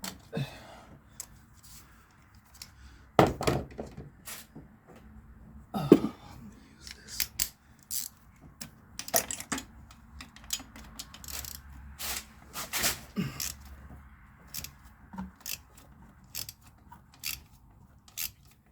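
Irregular metallic clicks and clinks of hand tools working a starter mounting bolt in against threads where its washer is stuck, with a few louder knocks of metal on metal.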